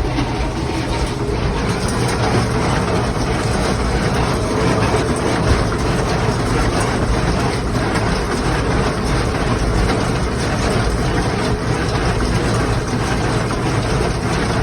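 Kubota M8540 tractor's diesel engine running steadily with a Claas Markant 55 square baler working behind it, a continuous loud mechanical din.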